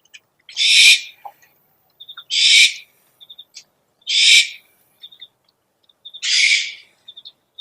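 Owl calls from a lure recording: a harsh, hissing screech about half a second long, repeated four times at even intervals of a little under two seconds, with quick high pips in between.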